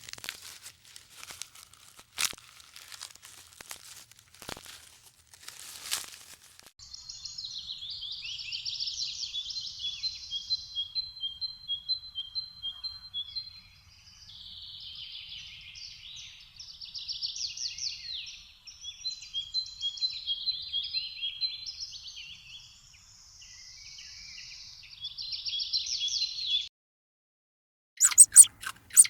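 A small bird singing: fast chattering trills mixed with runs of short, evenly repeated whistled notes, in several phrases. Before it come a few seconds of sharp clicks and crunching. The song cuts off abruptly near the end.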